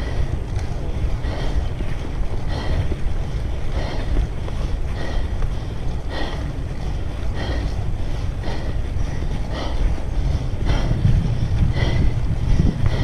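Wind buffeting the microphone with a heavy low rumble, and a short regular tick or squeak about once a second.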